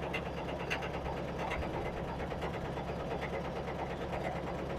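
John Deere 55 combine running with its separator engaged: a steady engine drone under a fast, even clatter with a knocking rattle. The owner takes the rattle to come from the clean grain elevator, which is not turning.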